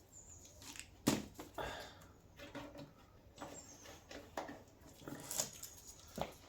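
Irregular knocks, taps and rustling from hands handling and pressing material into place, with one sharper knock about a second in.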